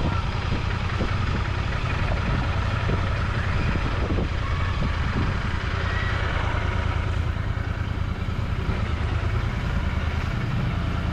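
Royal Enfield Continental GT 650's 648 cc parallel-twin engine running at steady low revs through its exhaust, with no revving, amid city traffic.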